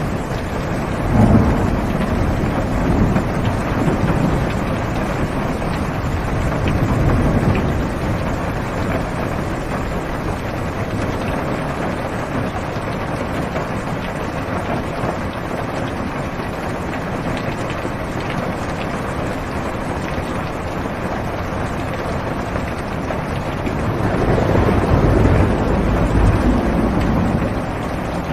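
Steady heavy rain drumming on a car's roof and windows, heard from inside the car. Low thunder rumbles swell up about a second in, again around seven seconds, and once more near the end.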